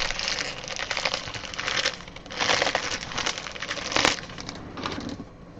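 Plastic or foil trading-card pack wrappers crinkling and rustling as they are handled, in several bursts with a sharp crackle about four seconds in.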